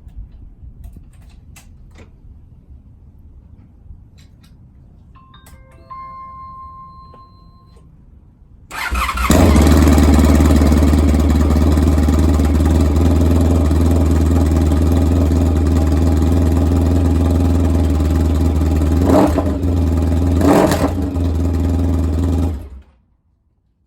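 Honda ST1300's 1261 cc V4 engine running with its mufflers removed (open exhaust): it starts about nine seconds in and runs loud and steady, with two short throttle blips near the end, then is switched off abruptly. Before it starts there are a few faint clicks and a brief steady whine.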